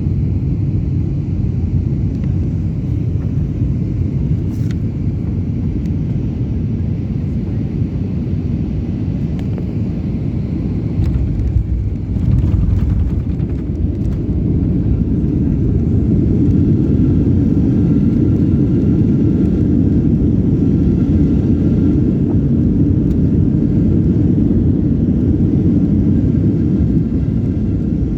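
Airliner cabin noise during landing: a steady low rumble of engines and airflow. There is a brief knock about twelve seconds in, and the rumble grows louder from about sixteen seconds on.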